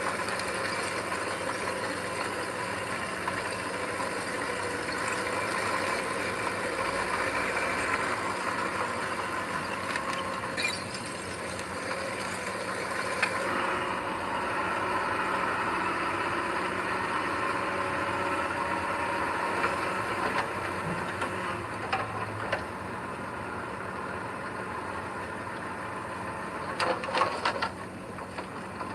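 Diesel engine of heavy earthmoving machinery running steadily, with a few knocks and a short burst of metallic clanking near the end.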